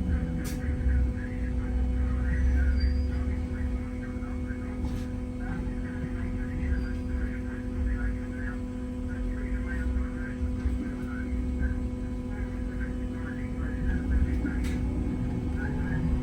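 Inside a Wright Gemini 2 hybrid double-decker bus: a steady electrical hum over a low rumble, level throughout.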